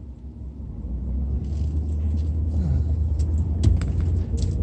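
Vehicle engine and road rumble heard from inside the cab, a steady low drone that gets louder about a second in as the vehicle pulls out and gathers speed. A few sharp clicks or rattles come near the end.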